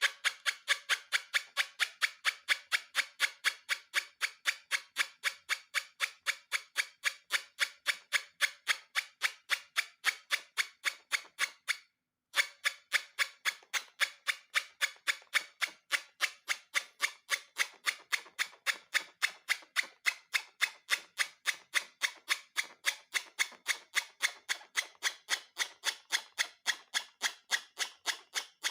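A rapid, even train of sharp clicks, about four a second, with a brief break about twelve seconds in.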